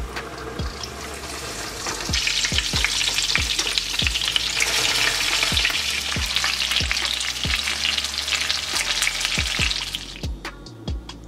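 Parmesan-crusted chicken breast frying in hot oil in a skillet: a loud, crackling sizzle that swells about two seconds in and stops near the end. Under it runs a music beat with deep bass kicks, which carries on alone after the sizzle ends.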